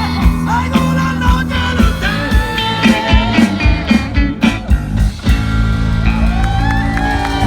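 Live rock band playing the close of a song, with drums and electric guitar. The drum hits stop about five seconds in and a final chord rings on.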